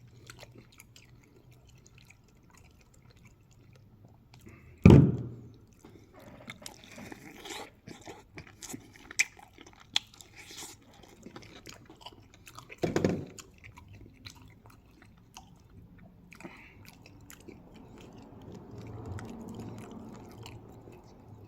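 A person chewing and biting crispy air-fried chicken wings close to the microphone, with many small crunches and mouth clicks. Two brief louder sounds stand out, about five and thirteen seconds in.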